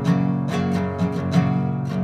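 Instrumental music: a strummed acoustic guitar playing chords.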